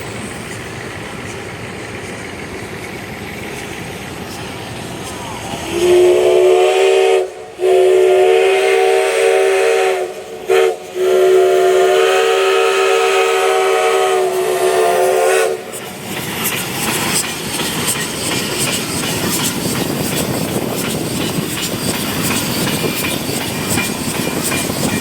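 Steam locomotive whistle blown in three long blasts and one brief toot, over the steady noise of the train. After the whistle the train keeps running with a rapid clicking.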